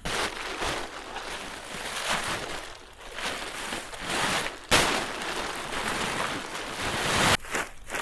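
A loud, even rushing noise in two long stretches; the second starts abruptly partway through and cuts off suddenly near the end.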